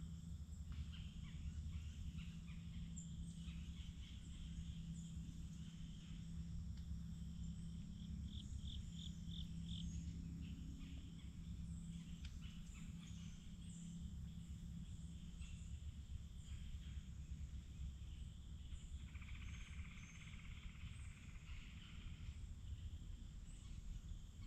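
Forest ambience: assorted birds calling and chirping over a low, steady rumble. About nine seconds in comes a quick run of about five repeated high notes, and later a buzzy trill lasts about three seconds.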